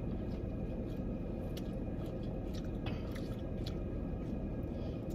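Chewing and biting into fried chicken wings, with scattered small wet clicks and crunches, over a steady low background hum.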